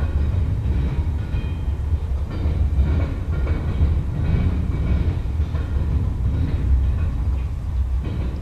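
Freight train cars rolling past at close range, a steady low rumble of wheels on rail.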